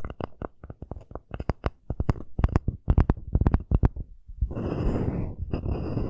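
Wooden cup holder tapped in a quick, irregular run of sharp clicks for about four seconds, then scratched in a steady rasp.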